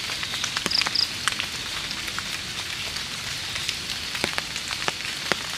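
Light drizzle falling steadily, with scattered sharp drips landing close by. Two brief high chirps about a second in.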